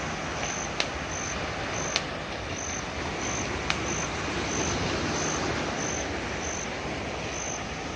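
Waves washing on a sandy beach, a steady rush of surf noise. An insect chirps in short high pulses about every half second, and a few sharp ticks stand out.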